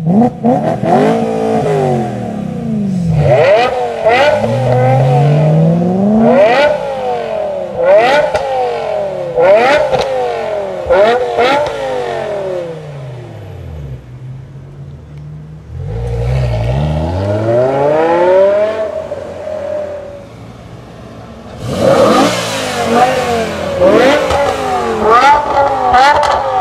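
BMW M5 E60's V10 with a custom exhaust being revved over and over, in quick sharp blips that climb and drop back one after another. The revving eases off around halfway, comes back with one longer climb, and ends in another burst of rapid blips.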